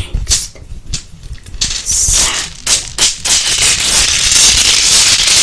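Close-miked object handling for ASMR: a few sharp clicks and taps, then from about a second and a half in a loud, continuous scratchy rustling.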